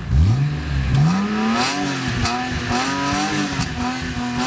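BMW Z3 M's straight-six engine revved hard from idle: the pitch climbs sharply, dips briefly, climbs again about a second in, then is held at high revs with the pitch wavering up and down.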